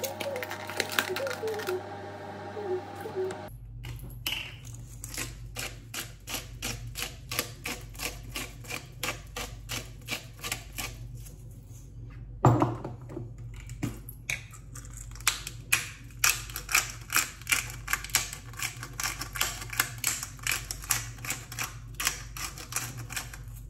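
Chicken frying in oil in a non-stick pot: steady crackling with sharp pops about twice a second over a low steady hum, and one loud knock about halfway through. Soft background music plays for the first few seconds.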